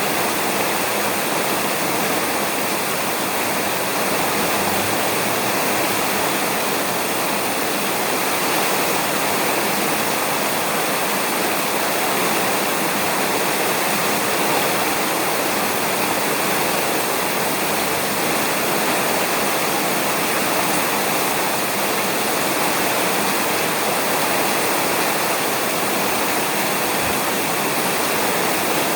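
Steady, heavy rain falling on a roof, an even unbroken hiss with no distinct thunderclaps.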